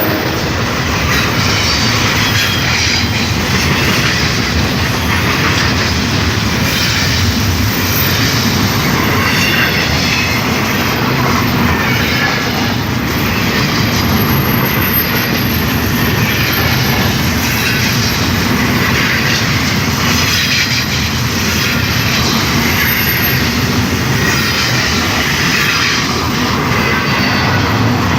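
Union Pacific freight train's cars rolling past: a steady loud rumble of steel wheels on rail with clickety-clack and wavering high-pitched wheel squeal coming and going.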